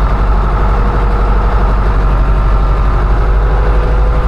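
Heavy diesel farm machinery engine running steadily at a low, even pulse.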